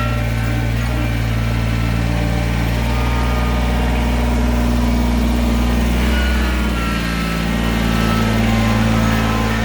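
An engine running steadily at a low, even speed, with no load changes or cuts.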